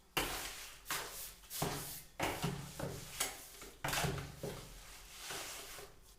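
Sand-cement mortar being worked by hand: about seven sharp scraping strokes, roughly one every 0.7 s, tapering off near the end.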